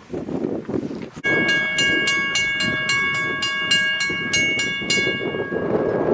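Railroad grade-crossing bell starting suddenly about a second in, struck rapidly about three to four times a second with a ringing tone, then stopping near the end. A low rumble runs underneath.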